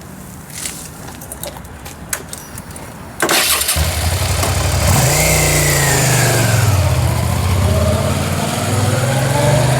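V-twin motorcycle engine started about three seconds in, catching after a brief crank and then running and being revved up and down, its pitch rising, falling and rising again. This is the bike just treated for a water-caused misfire, being started to go for a ride.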